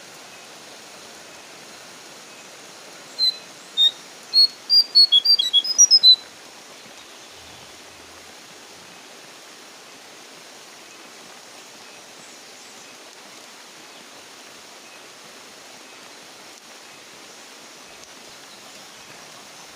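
Brown jongkangan bird's loud 'ngeplong' call: a quickening run of about a dozen sharp, high whistled notes about three seconds in, lasting some three seconds, over a steady hiss of falling rain.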